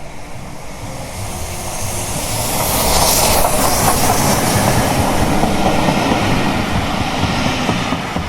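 A train passing: rolling rail noise that builds to its loudest about three seconds in, then slowly fades.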